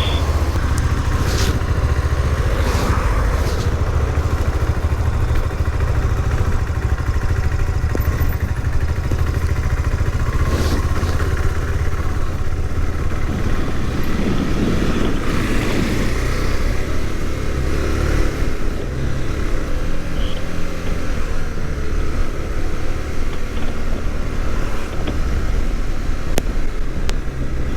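KTM 390 Adventure motorcycle being ridden on the road, its single-cylinder engine running steadily, with wind noise on the microphone.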